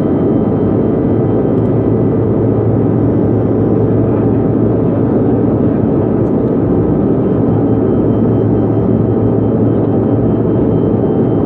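Airliner cabin noise in flight: a steady drone of engines and rushing air, with a constant low hum and no changes.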